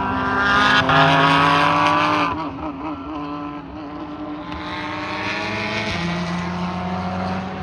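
Race car engines running at speed on the circuit: one car goes by loudly over the first couple of seconds and a second one comes through a few seconds later.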